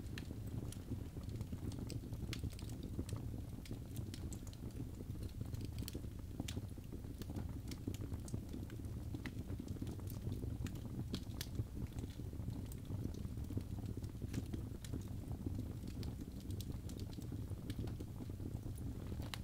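Birch logs burning in a fireplace: a steady low rumble of the fire with frequent irregular sharp crackles and pops throughout.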